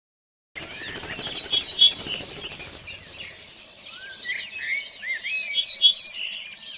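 Songbirds singing and chirping: quick whistled notes and rising and falling glides, starting abruptly about half a second in. A fast fluttering patter runs under the song for the first few seconds.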